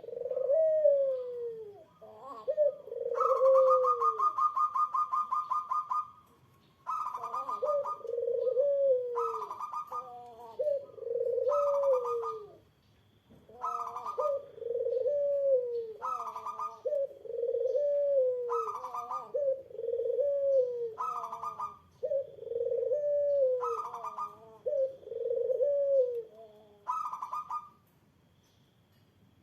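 Two puter doves (Barbary doves) cooing back and forth: one gives a repeated lower coo whose phrases fall away at the end, while the other answers with a higher rolling, trilled note, a long one about three seconds in and then short ones about every two seconds. The calls stop near the end.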